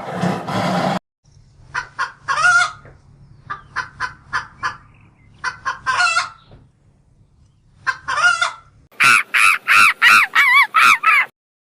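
Chicken clucking in short sharp notes, three times breaking into a longer squawk, followed near the end by a fast run of about eight loud, harsh repeated calls.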